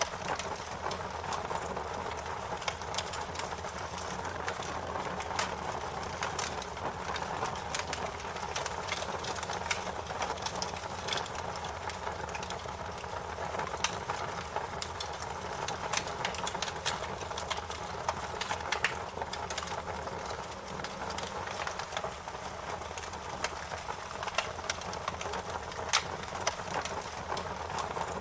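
Wood fire crackling: a steady hiss of burning with frequent, irregular sharp pops and snaps.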